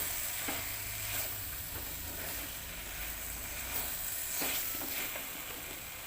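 A tomato and spice masala with freshly added coriander and red chilli powder sizzling in a pan while it is stirred, with a few faint scrapes against the pan.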